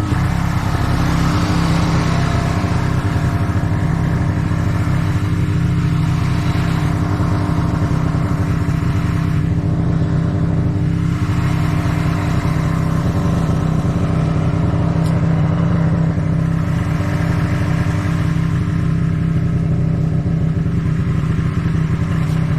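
Snowmobile engine running at a steady speed while under way, a continuous loud drone with a changing rush of noise above it.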